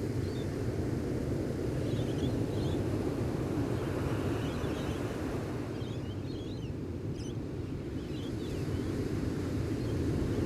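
Gentle ocean surf washing on the shore as a steady low wash, with faint small-bird chirps scattered over it.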